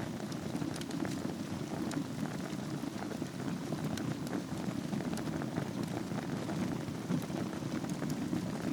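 Wood fire burning in a fireplace over a bed of embers: a steady low rumble with many small, irregular crackles and pops.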